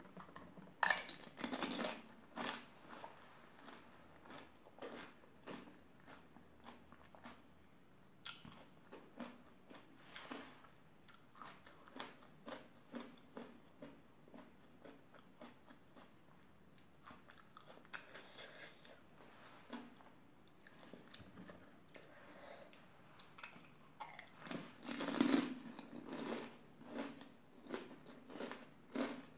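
Pani puri being eaten: a whole puri shell filled with spiced water cracks loudly as it is bitten, about a second in. Steady chewing with small crunches and wet squishes follows, and a second loud burst of crunching comes near the end.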